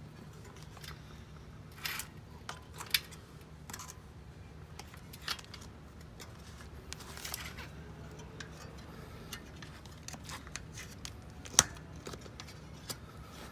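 Scattered light clicks, taps and rustles of hand work with small tools and bicycle parts, over a steady low hum. The sharpest click comes near the end.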